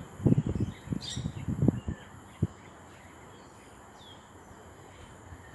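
A few short bird chirps and a brief falling bird call, over a run of low thumps and rumbles in the first two seconds.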